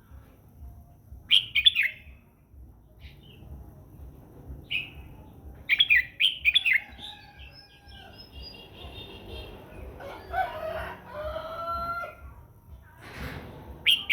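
Red-whiskered bulbul singing short bright whistled phrases in separate bursts: once about a second in, again around six seconds in, and once at the end. Lower drawn-out gliding calls come in between, and a faint low hum runs underneath.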